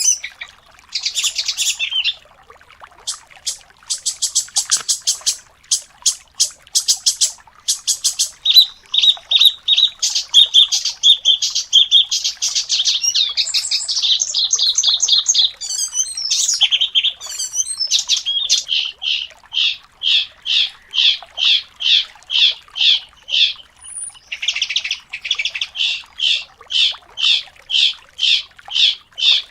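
Songbird singing rapid, dense song: fast trills and quick runs of notes, then, from about midway, a steady series of repeated high notes at roughly two a second, broken by a short pause about four fifths of the way in.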